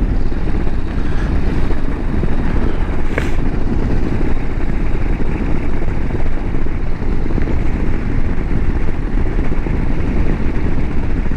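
A Harley-Davidson Road Glide CVO ST's Milwaukee-Eight 121 V-twin running at a steady cruise, heard together with constant wind rush on the rider's microphone. There is one brief faint tick about three seconds in.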